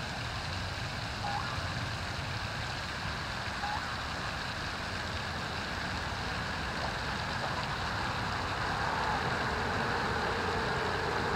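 Steady outdoor background noise, slowly growing louder, with two brief faint high notes about one and three and a half seconds in.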